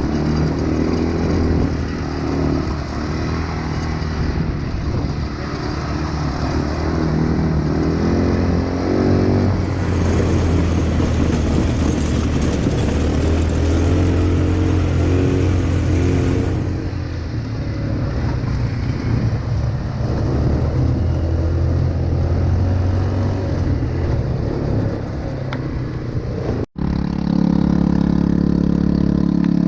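ATV engine running while being ridden, its note rising and falling with the throttle. The sound breaks off for an instant about 27 seconds in, after which the engine holds a steadier, louder note.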